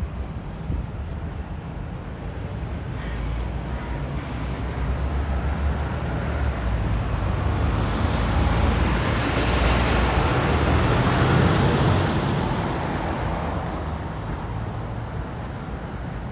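Road traffic on a rain-wet street: a vehicle's engine rumble and tyre hiss build up, are loudest about ten to twelve seconds in, then fade away.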